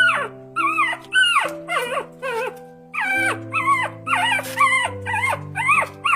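An animal giving a rapid series of high, sharply falling cries, about two a second, over background music with slow sustained low notes.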